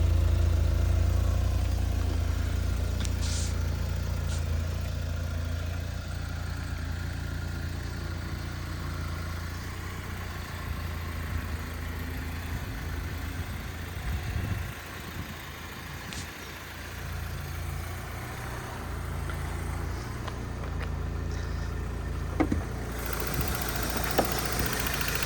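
1992 Vauxhall Cavalier's two-litre eight-valve C20NE engine idling steadily, with a couple of light knocks near the end.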